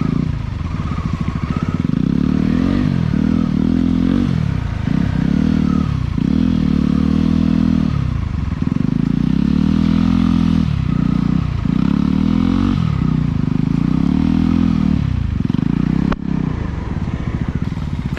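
Off-road motorcycle engine being ridden over a rough trail, its revs rising and falling again and again as the throttle is worked. A short knock comes about 16 seconds in.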